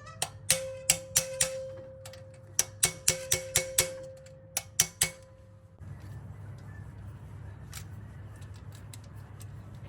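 Hammer striking a socket held on a valve spring retainer of a Ford 351 Windsor, about a dozen sharp metallic blows in quick groups, each ringing with one clear tone, to knock the stuck valve keepers loose. The blows stop about six seconds in, leaving a low steady hum.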